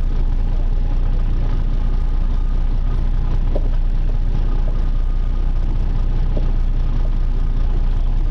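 Boat engine running steadily under a continuous rushing noise, with a few faint steady tones above it.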